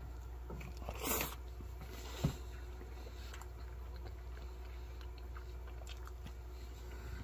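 Quiet chewing of a mouthful of flour tortilla wrapped around chili macaroni. There is a short louder burst about a second in and a single sharp tap a little after two seconds.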